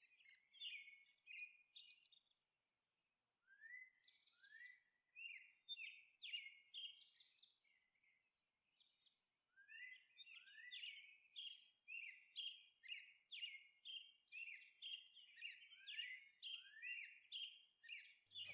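Faint bird chirping: short chirps with upward sweeps, scattered at first, then repeating about twice a second from about ten seconds in.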